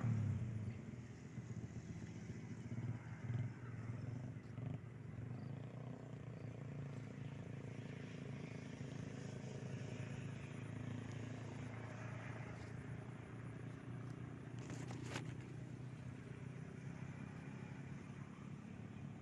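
A steady low engine hum runs throughout, with a single sharp click about fifteen seconds in.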